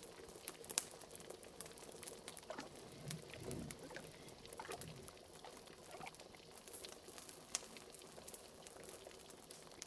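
Wood fire crackling with frequent sharp pops, together with a pot of liquid bubbling softly, its bubbles gurgling most clearly in the middle of the stretch.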